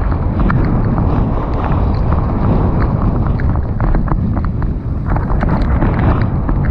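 Wind buffeting the camera microphone as a mountain bike descends a trail, a steady low rush broken by frequent sharp clicks and rattles from the bike over rough ground.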